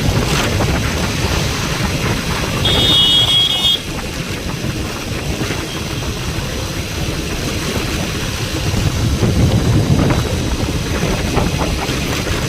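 Road vehicle on the move, with low engine and road rumble and wind buffeting the microphone. A short, high-pitched tone, like a horn or beep, sounds for about a second near the start.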